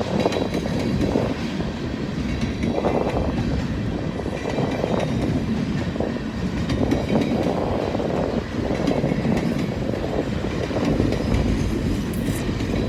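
Freight cars of a long mixed manifest freight train rolling past close by, a steady rumble of steel wheels on the rails.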